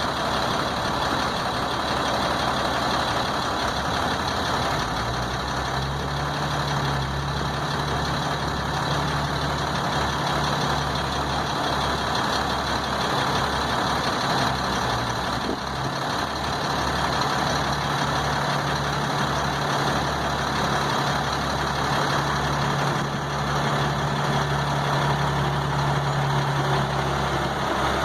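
Truck engine running steadily, with a low, even engine hum that comes in about five seconds in and holds.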